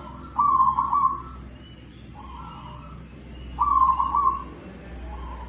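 A bird calling in a series of warbling phrases, two loud ones about a second long and fainter ones between, used as a masteran recording to train captive songbirds. A steady low hum runs underneath.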